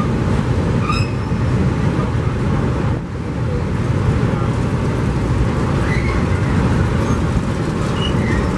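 A passing train: a loud, steady rumble, with a brief dip about three seconds in.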